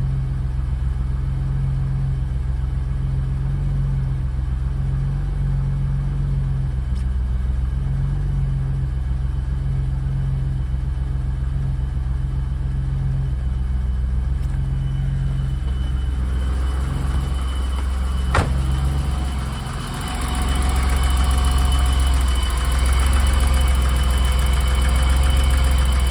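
BMW 535is's 3.4-litre M30 straight-six idling steadily as it warms up from a cold start. About two-thirds of the way through there is a sharp click and a brief dip. After it a louder running sound with a steady high whine takes over.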